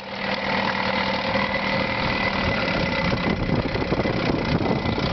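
1976 Chrysler 8 hp two-stroke outboard motor running steadily at low speed, sounding smooth and strong after a full tune-up. The level dips for a moment at the start, then holds even.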